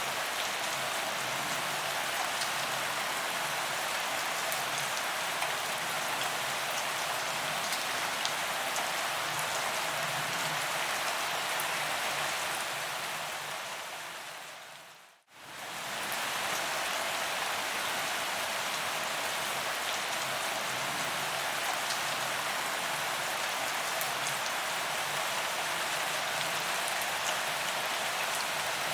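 Steady rain falling on paved ground, an even hiss of drops. About halfway through it fades out to near silence and fades straight back in.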